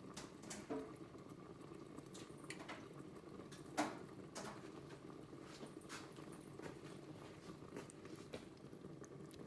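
Faint kitchen handling noises: scattered light clicks and taps, one a little louder about four seconds in, over a faint steady hiss.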